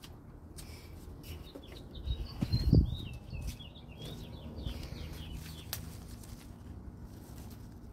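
Small birds chirping, a busy run of short chirps in the middle, with a brief low rumble about two and a half seconds in that is the loudest sound.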